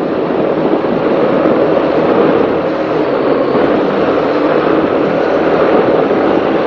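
Racing powerboat's engines running steadily at speed, mixed with a dense rush of wind and water past the hull.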